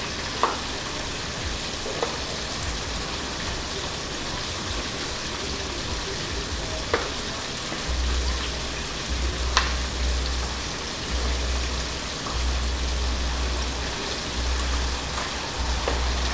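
Chicken pieces frying in hot oil: a steady sizzle, with a few sharp clicks. Low on-and-off rumbling comes in from about eight seconds in.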